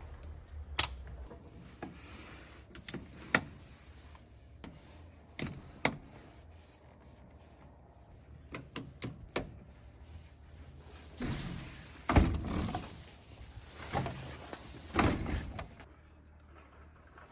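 Gear being handled: a series of sharp clicks and knocks, with louder bursts of rustling about two-thirds of the way through.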